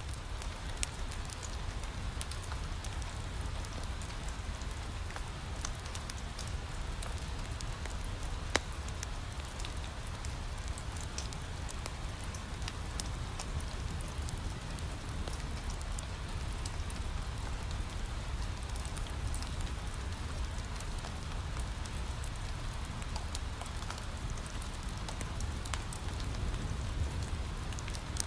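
Steady rain falling on a window, mixed with a wood fire crackling: an even hiss with a low rumble under it and many small sharp clicks, one a little louder about eight seconds in.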